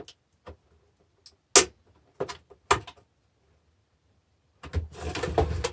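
Knocks and clinks from tools and metal parts being handled while a battery charger is taken apart, the loudest about a second and a half in. Near the end comes a busy stretch of rattling and scraping.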